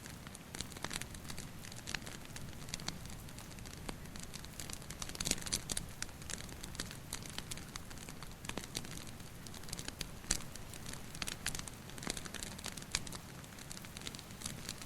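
Wood fire crackling, with irregular sharp pops and snaps and a dense flurry of them about five seconds in, over a low steady rumble.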